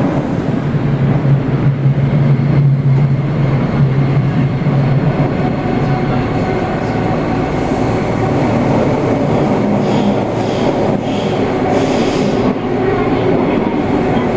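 Toei Oedo Line 12-600 series subway train running at speed through a tunnel between stations: loud, steady running noise of wheels and car body. A low steady hum stands out for the first five seconds or so, then fades.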